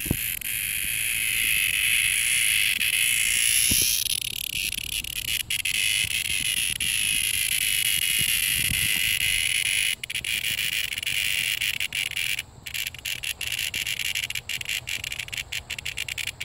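A single cicada buzzing loudly and steadily. From about two-thirds of the way through, the buzz breaks up into stuttering, uneven pulses with brief gaps.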